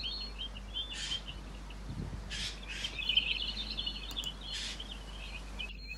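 Birds chirping and twittering continuously, with four or five short harsh, hissy calls mixed in.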